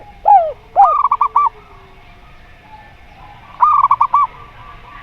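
Zebra dove (perkutut) and derkuku doves cooing. Two loud falling coo notes are followed at about a second in by a quick run of about five short clipped notes, and a similar run comes again near the four-second mark.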